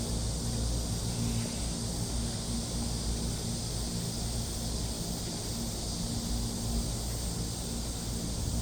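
Steady outdoor ambience: a low rumble under an even, high hiss, with no distinct events.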